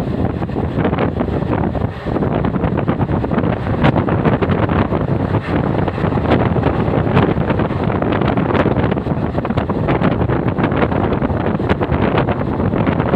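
Running passenger train filmed from on board, with heavy wind buffeting the microphone and a dense, irregular rattle through a steady rushing noise.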